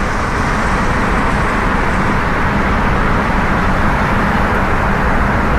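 Steady road and wind noise inside a car moving at freeway speed, with the windows open.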